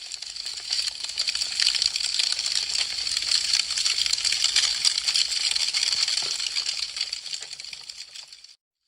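Wood fire crackling, a dense, rapid run of small sharp snaps and pops. It swells up at the start and fades away to silence just before the end.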